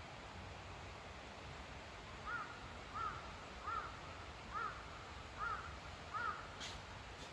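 A bird calling six times in an even series, a little under one call a second, over a faint steady background hiss.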